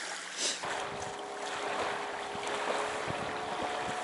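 Wind buffeting the microphone, with a short rush of noise about half a second in, over a steady faint hum whose pitch drifts slightly upward.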